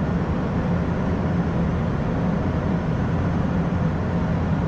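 Steady low hum inside an Airbus A220-100 cockpit on the ground, level throughout with no change.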